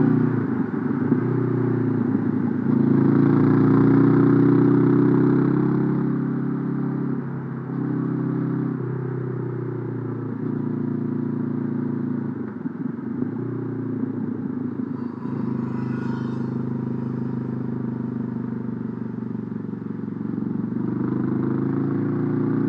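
Honda CB500F's parallel-twin engine running under way, its note falling away and picking up again several times.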